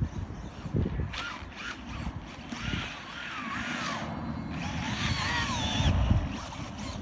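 Electric motor of a Losi Promoto RC motorcycle whining as it is driven, its pitch rising and falling over and over with the throttle.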